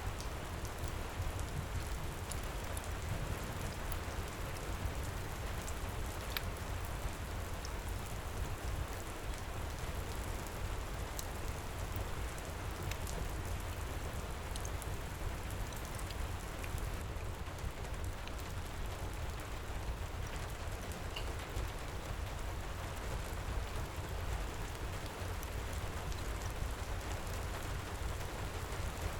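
Heavy rain pouring steadily, with scattered faint crackles and pops from a wood fire in a fireplace.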